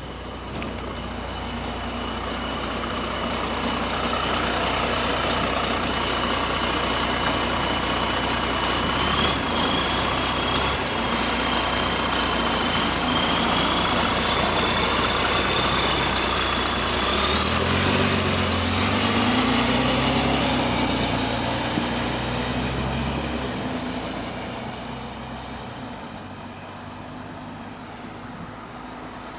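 Bus diesel engine with an exhaust leak, running steadily under a high whine. About two-thirds of the way in, the bus accelerates: the engine note steps up and the whine rises sharply in pitch. Then it eases off.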